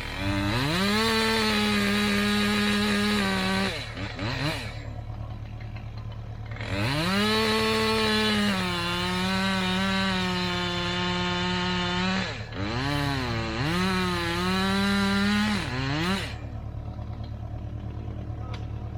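Two-stroke chainsaw revved to full throttle and held there, pitch sagging slightly as if under load in wood, twice for several seconds, then blipped a few times before dropping back to a steady idle.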